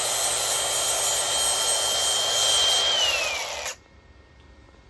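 A power drill running at full speed with a steady high whine. About three seconds in it is released: the whine drops as the motor spins down, and it stops soon after.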